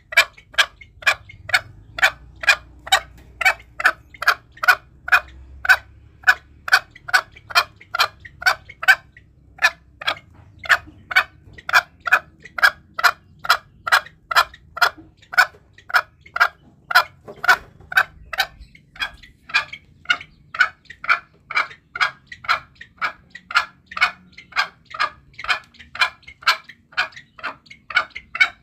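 Green junglefowl clucking: a fast, even run of short calls, about two to three a second, with a brief break about nine seconds in.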